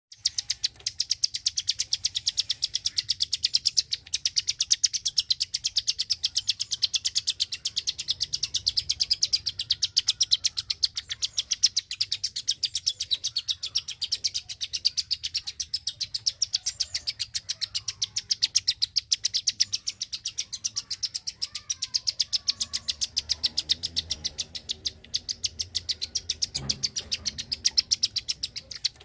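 A caged klik-klik songbird giving a fast, unbroken series of sharp, high clicking notes, about five or six a second.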